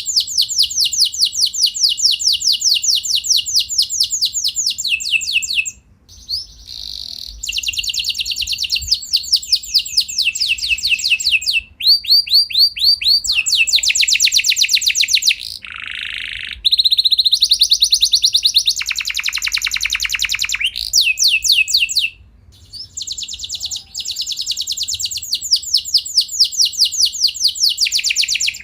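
Domestic canary singing long rolls: fast trills of rapidly repeated notes, the phrases changing speed and pitch every few seconds with brief pauses between them.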